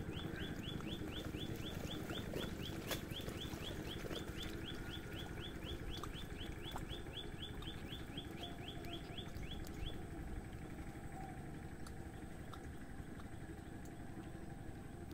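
A bird calling in a rapid, even series of short high chirps, about four a second, which stops about ten seconds in, over steady outdoor background noise.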